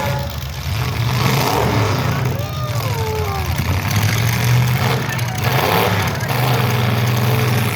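Demolition derby cars' engines running, a steady low drone that drops off and comes back a few times, with voices faintly over it.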